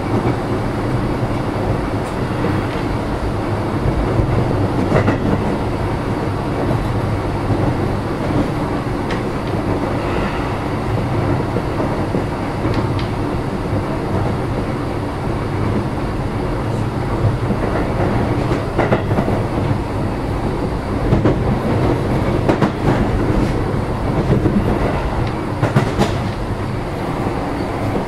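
Keio 7000-series electric train car running at speed, heard from inside the passenger cabin: a steady rumble of wheels on rail, broken by scattered clicks as the wheels cross rail joints.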